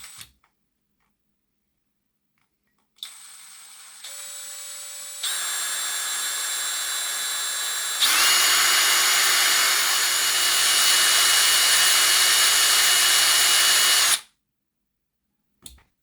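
Electric drill running with the oiled bit drilling out a snapped crank retaining screw from a Hornby A4 model locomotive's driving wheel. It starts about three seconds in, steps up in speed three times, and stops suddenly about fourteen seconds in, with the broken screw drilled out.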